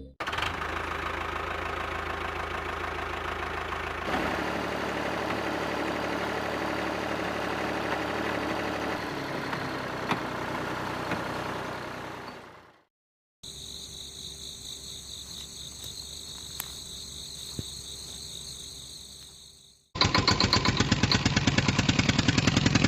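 Small electric motor of a homemade model tractor machine running, heard in three separate runs. The first runs steadily for about twelve seconds and fades out. After a short silence a quieter run follows with a high whine. Near the end a louder run starts, pulsing rapidly.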